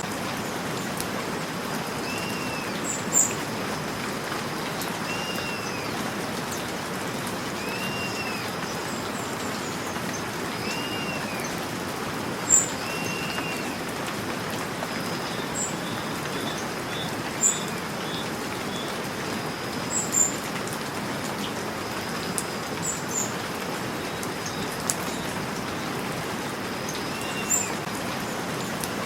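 Steady rain falling, with birds calling over it: one call repeats about every second and a half to two seconds, and short sharp high chirps break in now and then as the loudest sounds. A faint steady high tone runs underneath.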